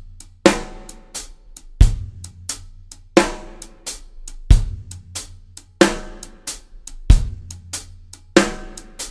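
Drum kit playing a slow half-time shuffle groove: bass drum on beat one and snare on beat three, alternating about every 1.3 seconds, with a shuffled hi-hat pattern ticking between them.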